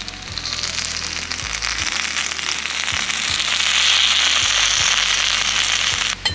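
Hot oil sizzling with dense crackling pops as whole amago (red-spotted masu trout) deep-fry, growing louder and then cutting off abruptly near the end.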